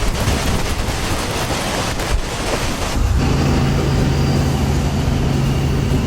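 Loud rushing noise, then about three seconds in an abrupt change to a steady low vehicle engine hum.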